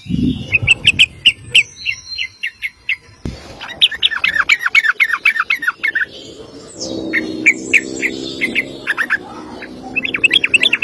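Yellow-vented bulbul (trucukan) singing long runs of rapid, repeated chirping notes, about four runs with short pauses between them.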